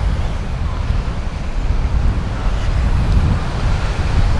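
Wind buffeting the camcorder's microphone: a loud, uneven low rumble with a faint hiss above it.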